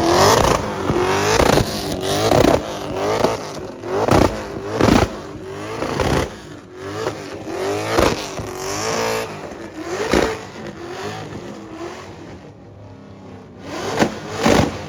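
A car engine being revved hard over and over, each rev rising in pitch and dropping back, about once a second, with sharp cracks at several of the peaks. The revving pauses briefly near the end, then two more revs follow.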